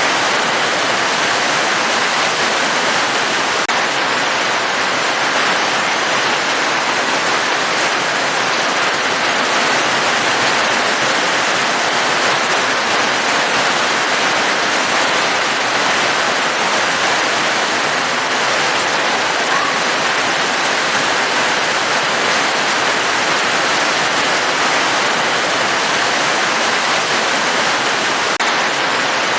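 Steady rain falling, an even unbroken hiss with no distinct drops standing out.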